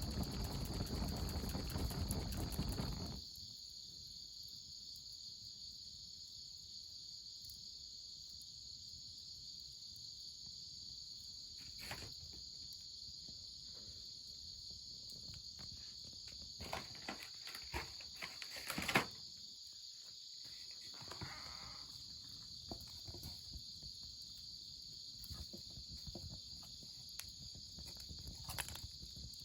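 A steady high-pitched insect chorus, crickets or similar, chirring throughout. A louder rushing noise stops abruptly about three seconds in, and scattered sharp clicks and snaps come mostly past the middle, with one louder snap about two-thirds of the way through.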